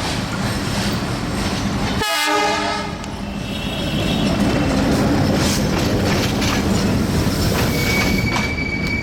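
Diesel-hauled broad-gauge passenger train (ALCO WDM-3A locomotive, LHB coaches) running past. A short horn blast about two seconds in is followed by wheels clattering over the rail joints, with a thin high wheel squeal near the end.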